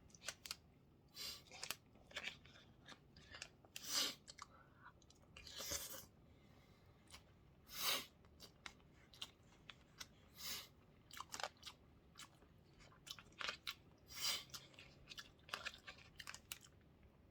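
A person chewing and eating close to the microphone: irregular short mouth clicks and chewing noises, a few louder than the rest.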